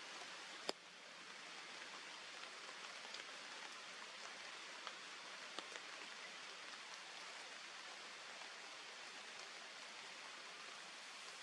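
Faint, steady outdoor hiss with a rain-like patter, broken by one sharp click under a second in and a few small ticks later.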